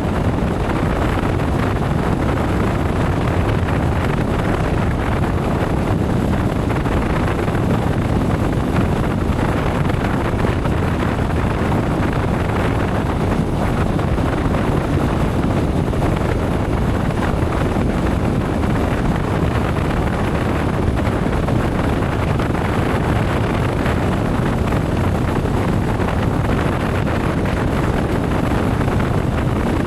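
Steady rush of wind on the microphone from a motorcycle ride at speed, with the bike and road noise underneath.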